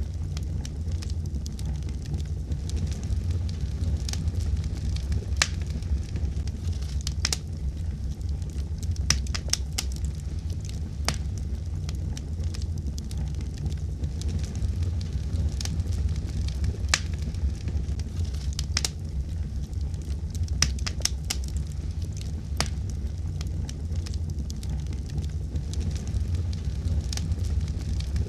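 Wood fire burning in a fireplace: a steady low rumble with sharp crackles and pops at irregular intervals, some coming in quick clusters.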